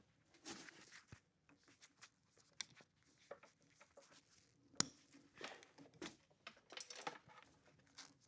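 Faint handling sounds of a wire being worked into an inverter's wiring compartment: scattered rustling and scraping, with one sharp click a little past the middle.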